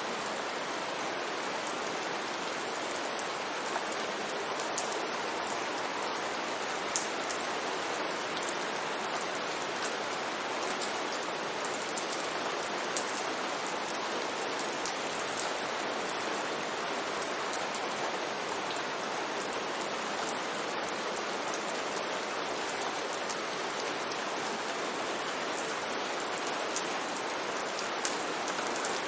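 Steady rain falling on a street, with scattered individual drops ticking through the even hiss.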